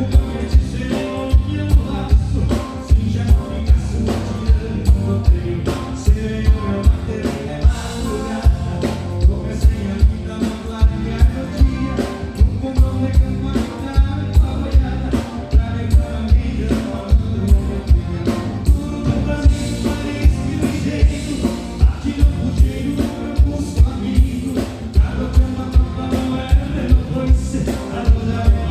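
Live band playing gaúcho dance music with singing, driven by a steady, even beat.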